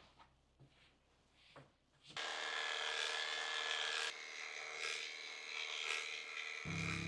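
Electric dog grooming clippers starting about two seconds in and running with a steady buzz, after a few faint clicks. Piano music comes in just before the end.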